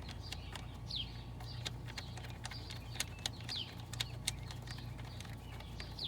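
A songbird calling: a short, high, falling note repeated about every two and a half seconds, amid scattered light clicks and a steady low hum.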